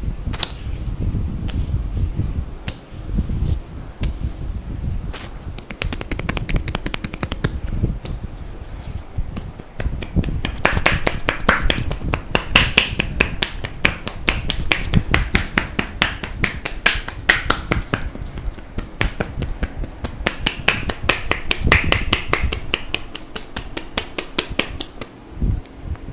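Percussive massage: hands striking a person's neck, shoulders and upper back in a fast run of sharp slaps, several strikes a second, quickening after the first few seconds, with some rubbing of hands on skin between runs.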